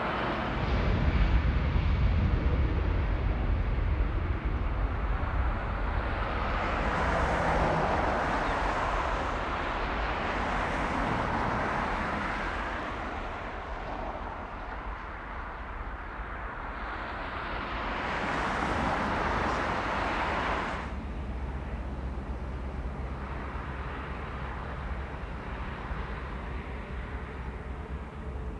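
Jet aircraft engine noise at an airport: a steady low rumble with a rushing sound that swells and fades several times. About two-thirds of the way through, the upper part cuts off suddenly, leaving the lower rumble.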